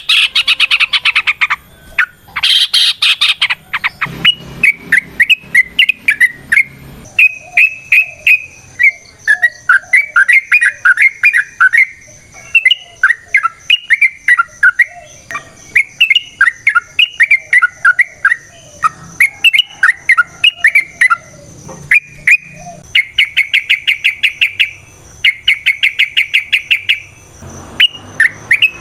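Yellow-vented bulbul song: rapid, bubbly phrases of short chirping notes, with fast rattling trills near the start and again near the end. A faint steady high tone runs beneath from a few seconds in.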